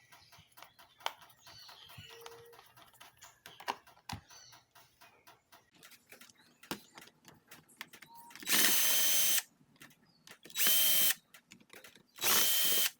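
A cordless power drill or electric screwdriver runs in three short bursts, each about a second long, with a steady motor whine: it is driving screws out of the Shark vacuum's power nozzle. Before that come several seconds of small clicks and taps from handling the parts.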